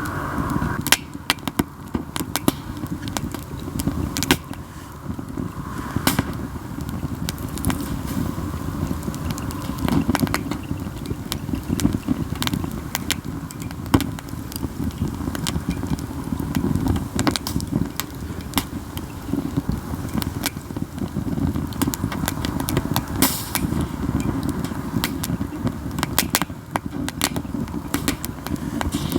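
Katsura wood campfire burning, with frequent irregular crackling and sharp snapping pops over a steady low rumble.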